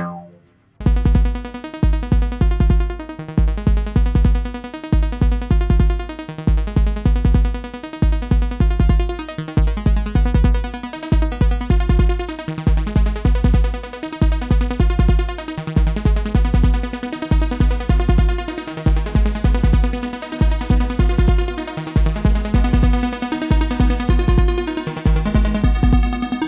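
Sequential Fourm four-voice analogue polysynth playing a sequenced musical sketch: a pulsing low bass note about once a second under a line of pitched synth notes. It starts after a brief silence.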